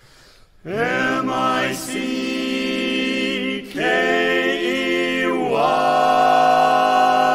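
Barbershop quartet singing a cappella in four-part close harmony. Long held chords start about a second in and change a few times.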